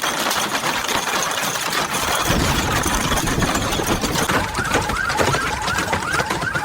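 Hailstones clattering densely and rapidly on a hard surface. About four and a half seconds in, a car alarm starts a repeating chirping warble over the hail.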